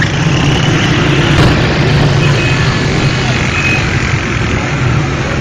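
Motor vehicle engine running steadily amid loud street traffic noise, with voices mixed in.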